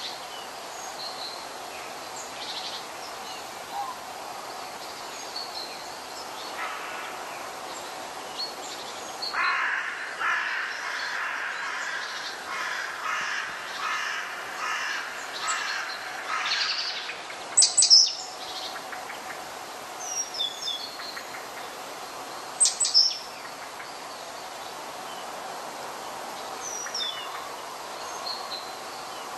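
Birds calling: a run of harsh, crow-like calls repeated over several seconds in the middle, then a few sharp, high chirps, over steady outdoor background noise.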